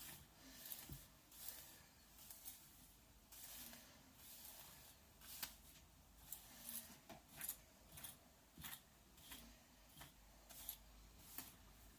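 A hairbrush drawn through long, wet, conditioned hair: faint repeated swishing strokes, about one or two a second.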